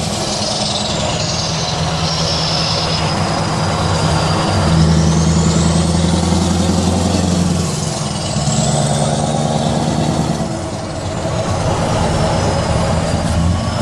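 Straight-piped Scania R500 V8 diesel truck engine running under way with a deep, steady exhaust note that grows louder about five seconds in and eases off briefly near eleven seconds. A thin high whistle glides up and down above it.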